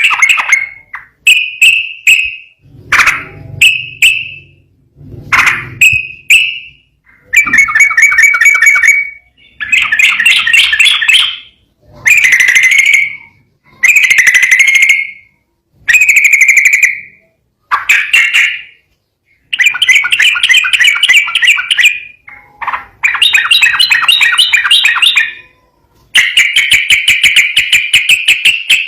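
Yellow-vented bulbul (trucukan) singing loud, fast, bubbly song phrases of about one to two seconds each, one after another with short pauses, the last phrases running longer.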